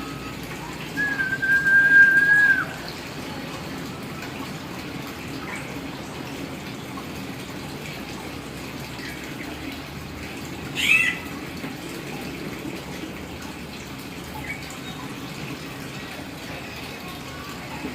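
Hill myna giving one long level whistle about a second in, then a short sweeping call around the middle and a faint chirp later, over a steady hiss.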